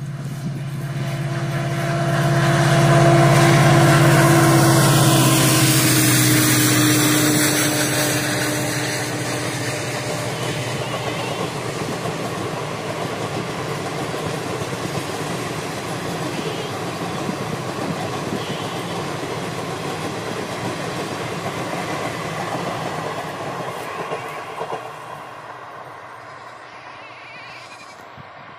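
A train passes at speed. A loud hum rises to a peak about three seconds in and drops slightly in pitch as it goes by, followed by a long steady rumble of the coaches on the rails that fades away near the end.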